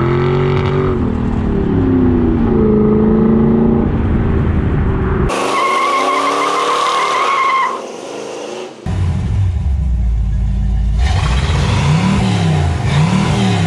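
Car engine revving, its pitch rising and falling, in several clips that cut abruptly into one another.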